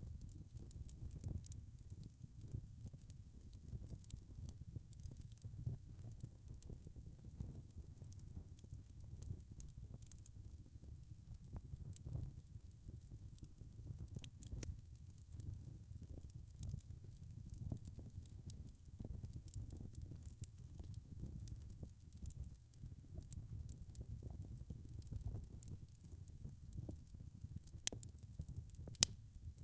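Wood fire crackling: a steady low rumble with a constant scatter of small crackles, and two sharper pops near the end.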